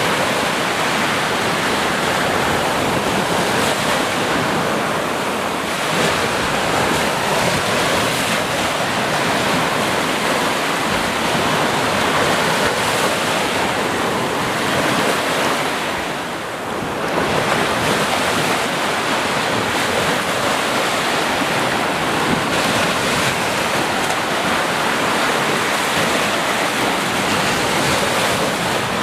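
Sea waves washing onto a shore in a continuous surf, swelling and easing, with a brief lull about halfway through.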